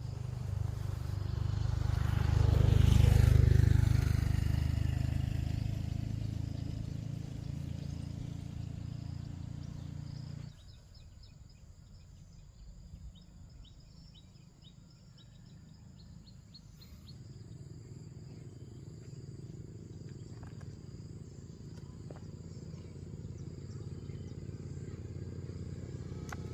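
A loud low rumble swells, peaks a few seconds in and slowly fades, then cuts off suddenly. It gives way to a quieter outdoor background with short high chirps and a low rumble that slowly grows louder.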